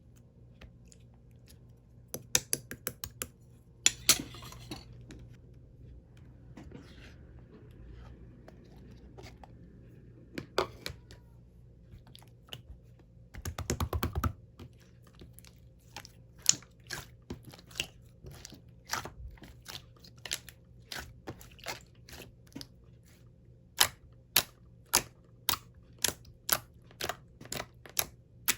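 Slime being squeezed and pressed by hand, giving sharp clicks and pops. A dense burst of crackling comes about 14 seconds in, and toward the end the clicks settle into a steady run of about two a second.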